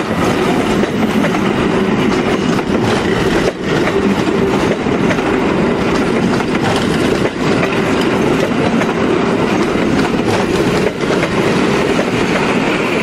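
Train of ČSD passenger coaches rolling past at close range: a loud, steady rumble of wheels on the rails, with a few sharp clacks as wheels cross rail joints.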